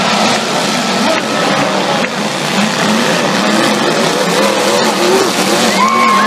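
Demolition-derby truck engines revving hard, their pitch rising and falling, with a few sharp knocks. A steady high tone starts near the end.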